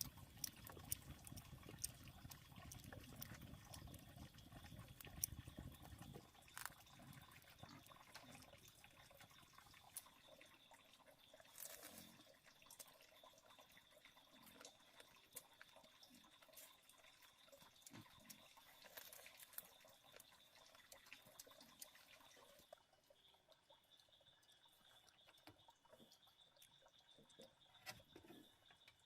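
Faint water trickling and dripping, with scattered small clicks over a steady high-pitched tone; a low rumble drops away about six seconds in.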